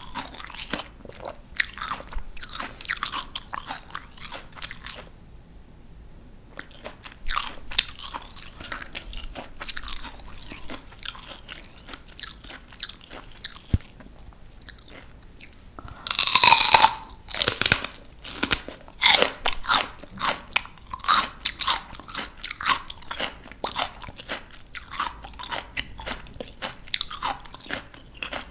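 A person biting into and chewing crisp raw vegetables, with wet, crackling crunches. A loud crisp bite comes a little past the middle, followed by steady crunchy chewing about twice a second.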